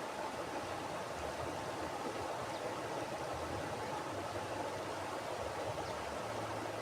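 Mountain river flowing: a steady rush of running water.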